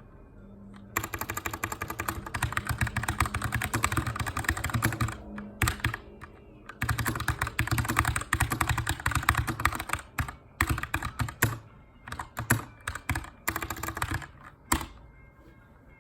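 Typing on a Keychron K2 mechanical keyboard with an aluminium frame and brown switches. There are fast runs of keystrokes with short pauses between them, and the typing stops about a second before the end.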